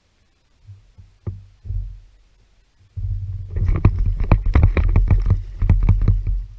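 A few separate thumps, then about three and a half seconds of quick knocks over a heavy low rumble: a kayak being moved and handled right next to a GoPro microphone.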